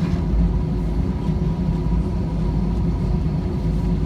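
Airliner cabin noise: a steady low rumble of the jet engines and airflow with a faint, even whine.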